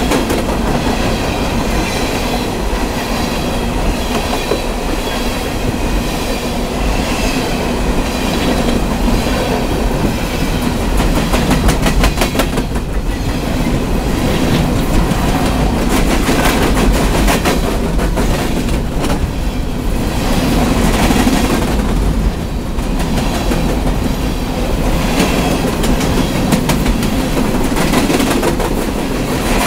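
Coal train's cars rolling past close by: a steady rumble of steel wheels on rail with repeated clickety-clack clicks as the wheels cross rail joints.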